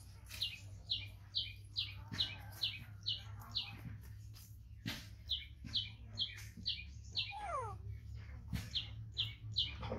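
A bird chirping over and over in quick runs of short, bright notes, about two to three a second, with brief pauses between runs. There are a few knocks and a steady low hum underneath.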